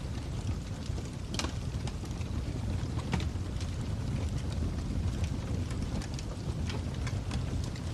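Fire crackling: a low steady rumble with irregular sharp pops, the loudest about a second and a half in.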